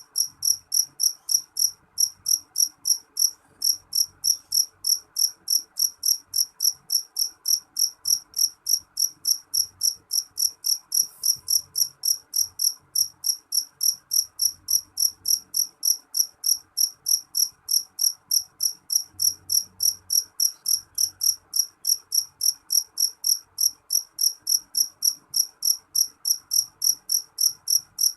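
Cricket chirping in an even, unbroken rhythm, about three high-pitched chirps a second.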